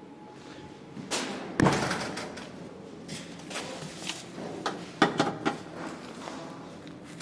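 A series of knocks and bangs: one about a second in, the loudest just after with a short ring, and a quick run of three or four sharp clanks about five seconds in.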